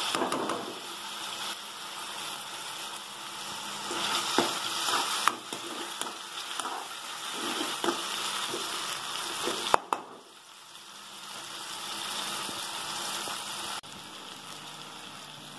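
Soaked toor dal, tomato and onion sizzling as they fry in a metal kadai, with a metal ladle scraping and knocking against the pan as it stirs. There is a sharp knock about ten seconds in, and the sizzle is quieter after it.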